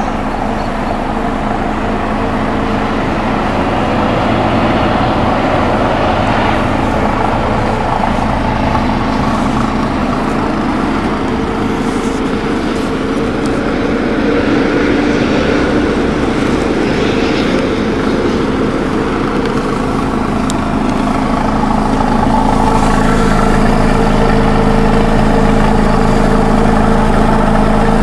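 Honda K24 2.4-litre inline-four engine idling steadily with an even hum. It gets a little louder in the last few seconds.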